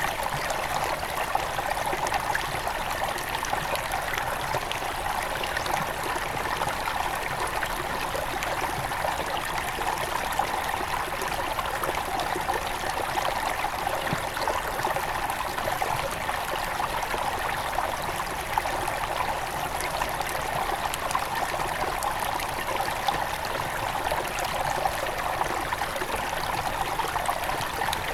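Headwater river flowing steadily, an even, unbroken rush of running water.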